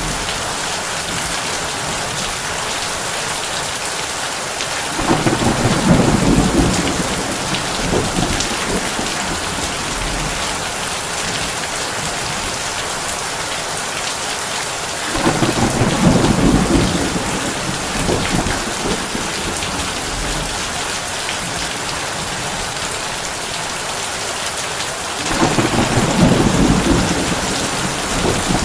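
Heavy rain falling steadily on a tin roof, with three rumbles of thunder about ten seconds apart, each lasting two or three seconds.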